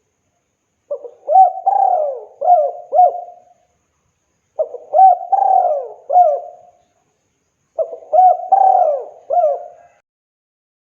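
Spotted dove (tekukur) cooing: three full song phrases, each a run of about four hooting coos lasting some two and a half seconds, with short silences between.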